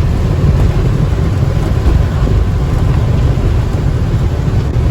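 Steady low rumble of engine and road noise inside a box truck's cab at highway speed in the rain, with wet tyre hiss.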